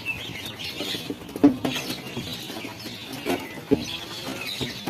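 A flock of birds calling, many short high chirps overlapping, with irregular soft knocks, the strongest about a second and a half in and again near four seconds.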